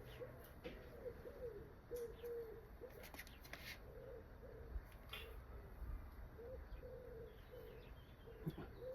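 Birds cooing softly: short, low, slightly rising-and-falling calls repeated again and again.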